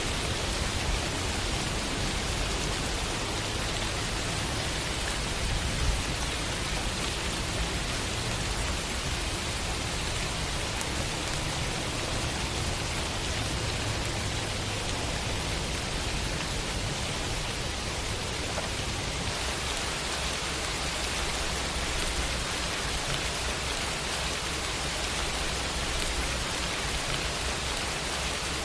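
Steady city rain falling in an even hiss, with a low rumble underneath.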